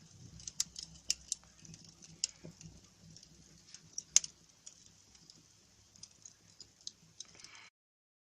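Cardboard burning in a fireplace, crackling with irregular sharp pops over a faint hiss, the loudest pop about four seconds in.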